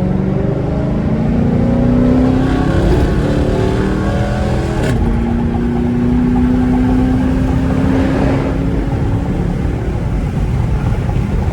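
Straight-piped 5.7-litre Hemi V8 of a Chrysler 300S accelerating. The exhaust note climbs, drops at a gear change about five seconds in, climbs again, then eases off near the end. The exhaust echoes back off the surrounding walls.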